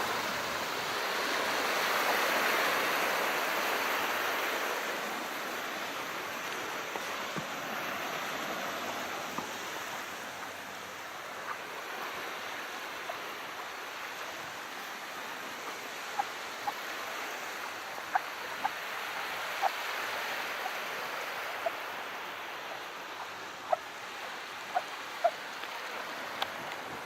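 Calm sea water washing steadily, with a swell near the start that eases off. Scattered short, high plinks are heard in the second half.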